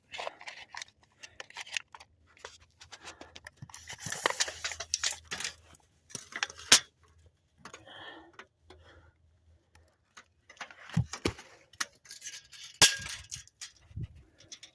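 Irregular clicks, clinks and rustling of close handling as a metal tape measure is worked against a log.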